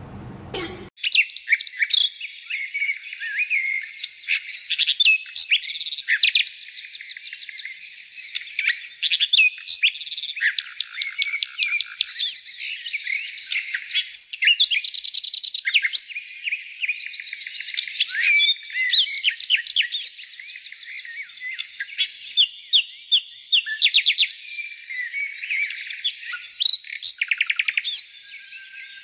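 A bird chirping and twittering without pause, quick runs of high chirps broken now and then by fast trills.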